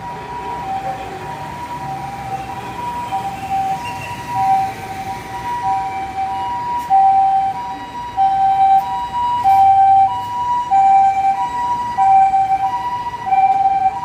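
Emergency vehicle's electronic two-tone hi-lo siren, the Japanese 'pee-po' pattern, switching back and forth between a lower and a higher tone about every two-thirds of a second. It grows louder in the second half as the vehicle comes nearer.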